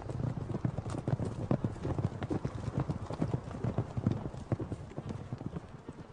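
Wild horses' hooves thudding on the ground in an irregular patter of knocks as the horses move about, growing fainter toward the end.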